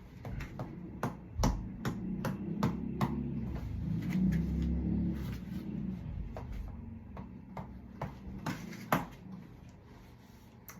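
Irregular sharp knocks and taps, about twenty in all, the loudest two about a second and a half in and near the end, over a low rumble for the first half.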